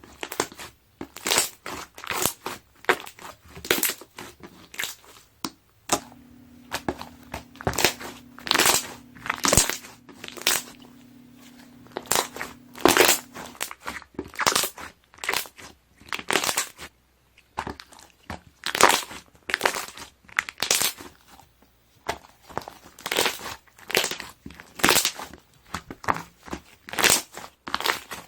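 Slime being pressed and squeezed, its trapped air bubbles popping and crackling in repeated bursts, one to two a second. A faint steady hum runs under it from about six seconds in until about halfway through.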